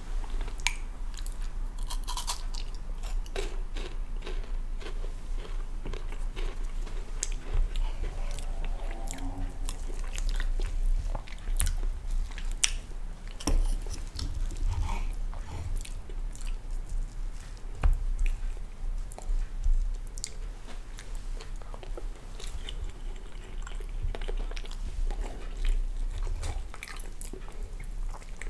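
Close-miked chewing and biting of food, crunchy at times: crumbly kue sagon coconut cake and pancakes. Scattered sharp clicks of a knife and fork against the plate and board.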